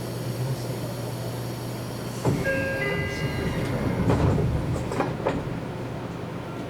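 Seibu Railway train heard from on board, running with a steady low hum and rumble. About two seconds in, the wheels grow louder and clatter, with a brief high metallic squeal, then a few sharp clacks.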